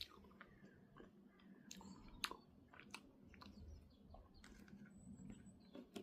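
Faint scattered clicks and crackles, with a few sharper ticks around two to three seconds in.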